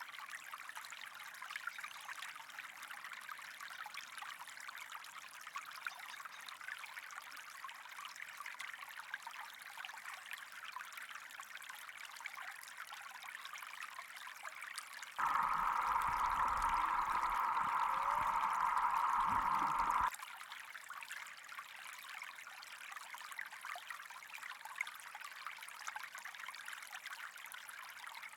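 Steady running, trickling water with a fine crackle. About halfway through, a louder, narrower hiss cuts in suddenly, lasts about five seconds, and stops just as suddenly.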